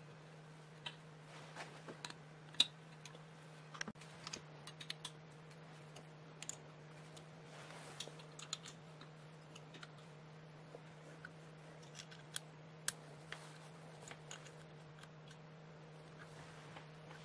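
Scattered light clicks and taps, irregular and a few sharper than the rest, over a steady low hum.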